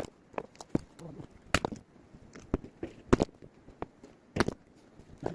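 Firewood being split: a blade striking wood in a series of sharp, irregularly spaced knocks, a few of them much louder than the rest.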